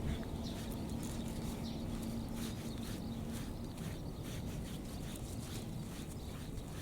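Brush strokes through a Shiba Inu's shedding coat: repeated short swishes, about two or three a second.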